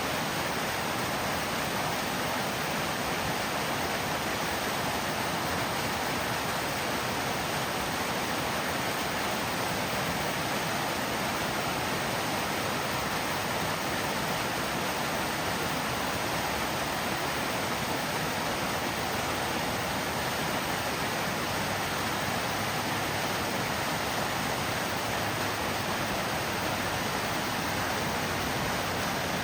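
Small waterfall rushing steadily: an even, unbroken wash of falling water.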